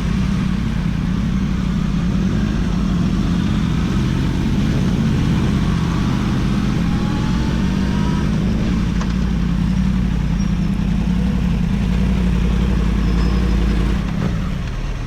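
Yamaha R1 motorcycle engine running at a steady cruise under heavy wind rush, then easing off about fourteen seconds in.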